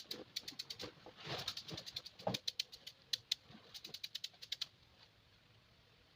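A rapid, irregular run of sharp clicks and taps that stops about four and a half seconds in.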